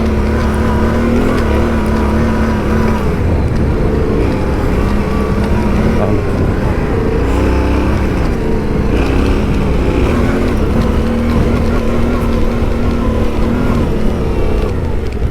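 Yamaha Ténéré 700's parallel-twin engine running under way as the motorcycle rides uphill, its pitch wavering a little with the throttle over a low rumble.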